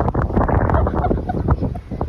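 A rapid string of short animal calls, with wind rumbling on the microphone.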